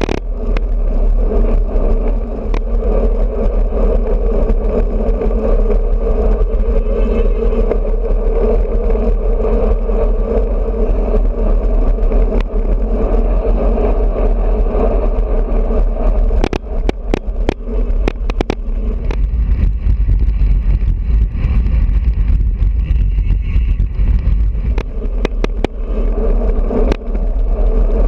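Wind buffeting a bicycle-mounted action camera while riding at speed, over a steady road and tyre hum that drops away for a few seconds past the middle and then returns. Sharp clicks and rattles come throughout, mostly in the second half.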